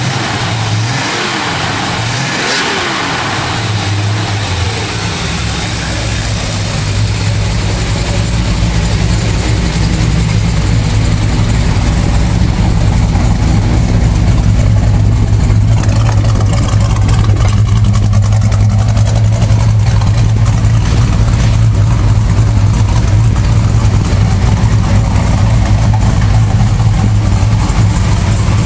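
Plymouth Duster 340's V8 engine running on its first start after 15 years laid up. It is revved by hand at the carburetor's throttle linkage in the first few seconds, then settles into a steady idle that grows slightly louder.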